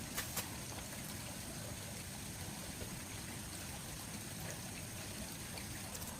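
Steady flowing water, with two short sharp clicks just after the start.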